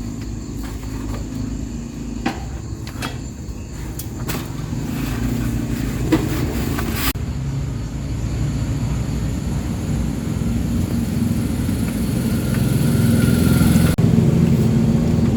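Dump truck's diesel engine running, growing louder through the second half, with a few sharp clicks or knocks in the first half.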